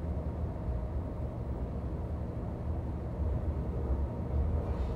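Steady low rumble of an NJ Transit Multilevel passenger coach running at speed, heard from inside the car, with a faint steady hum over it. A brief swell of hiss comes near the end.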